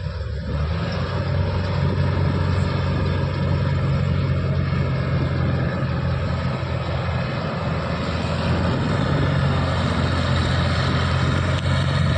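Heavy farm machine's engine running steadily with a low, even drone, growing louder about a second in.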